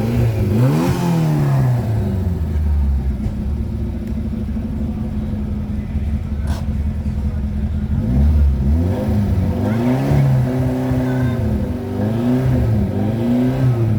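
A car engine is revved up and falls back to a steady low idle, about a second in. From about eight seconds in it is revved again several times in quick succession. There is a single short click in between.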